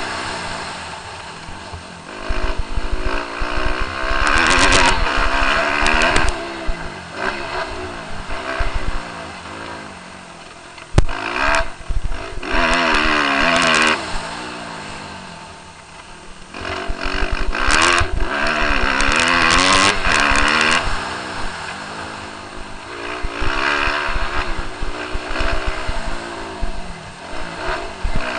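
Motocross bike engine revving hard in repeated surges, its pitch climbing and dropping through the gears, easing off between surges, with wind buffeting on the microphone. A single sharp knock about eleven seconds in.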